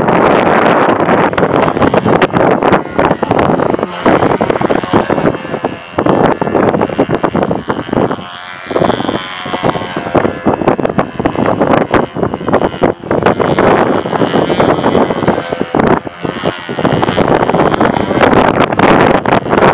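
Strong wind buffeting the microphone in loud, gusting rushes. Under it runs the thin, high-pitched note of a control-line model aircraft's engine, rising and falling as the plane circles.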